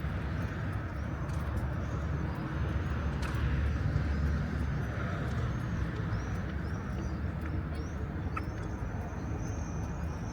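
City street ambience: a steady low rumble of traffic, with birds' repeated short high chirps joining about halfway through and coming thick near the end.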